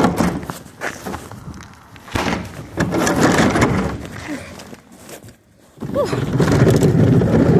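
Thuds, knocks and scuffing of someone running and handling a trash can, then a steady rumbling noise from about six seconds in.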